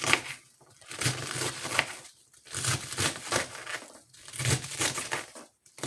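Fresh head of cabbage being cut up with a knife, crisp leaves crunching and tearing in several bursts with short pauses between them.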